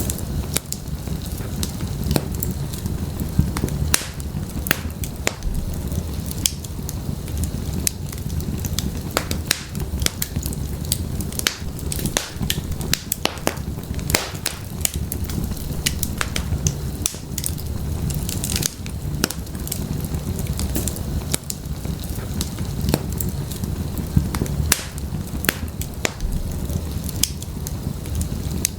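Wood fire burning in a fireplace, with a low steady rumble of flames under frequent irregular sharp crackles and pops.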